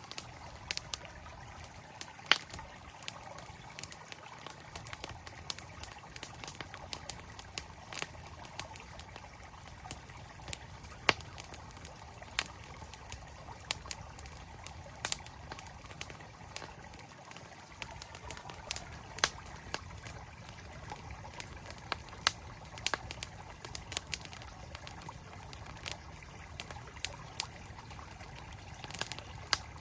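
Campfire crackling, with sharp, irregular pops and snaps, over the steady rush of a mountain stream.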